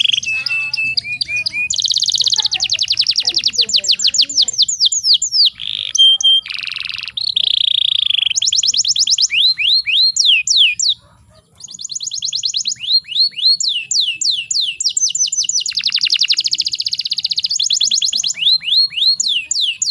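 Domestic canary singing: fast rolling trills alternating with quick runs of downward-sweeping notes, high-pitched and continuous apart from a brief pause about 11 seconds in.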